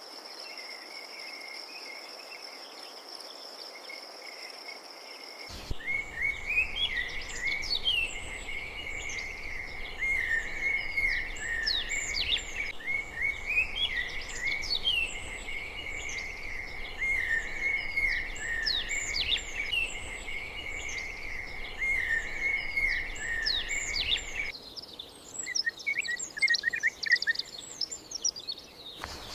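Crickets trilling steadily, cut off abruptly about five seconds in by a dense chorus of songbirds with many quick chirps sweeping downward in pitch. Near the end the chorus thins to scattered chirps.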